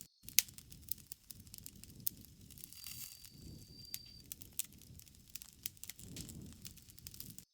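Campfire crackling, with scattered sharp pops over a low rustle of burning wood. A thin, steady, high tone sounds for about a second and a half near the middle.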